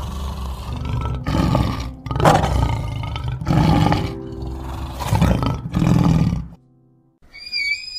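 A large animal roaring about five times in a row over background music, the roars breaking off suddenly about six and a half seconds in; music with chime-like tones follows near the end.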